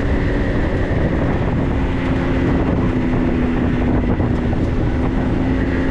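Steady engine and road noise of a 4x4 being driven, with a low engine hum holding an even pitch.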